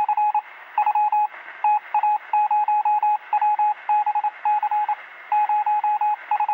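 Electronic beep tones at one steady pitch, keyed in rapid irregular runs of short and longer beeps like Morse code. They sound thin, as if heard over a radio or telephone line.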